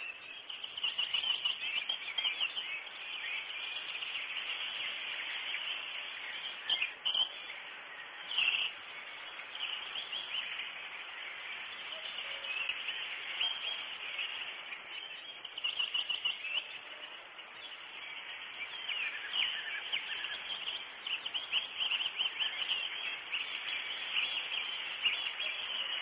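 Birds chirping and twittering in rapid, high-pitched calls, with no let-up.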